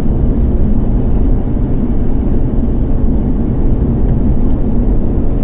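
A van being driven: a steady, low engine and road rumble with a faint hum.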